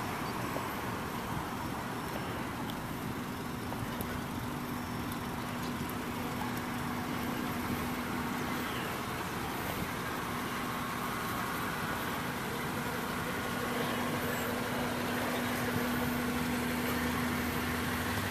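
1998 Honda Accord's engine idling steadily, heard from outside the car, a constant hum over an even hiss.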